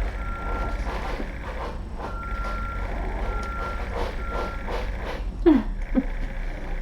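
A vehicle's reversing alarm beeping, a steady high beep sounding several times at uneven spacing. About five and a half seconds in comes a short falling cry, loudest of all, and a smaller one just after.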